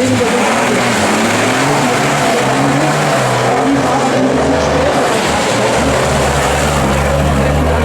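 Unimog rally-raid race truck's engine working hard off-road, its note stepping up and down several times as it revs and shifts, over steady loud rushing noise.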